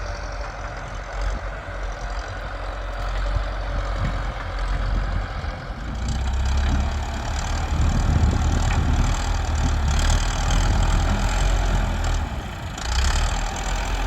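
Tractor engine running steadily, growing louder about six seconds in.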